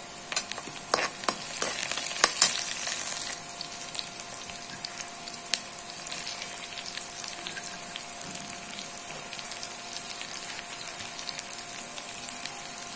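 Onions and garlic sizzling in hot oil in a nonstick pan as they are sautéed, with sharp clicks and scrapes from stirring with a metal spatula in the first few seconds. The sizzle then carries on steadily as carrots, green beans and chayote are added.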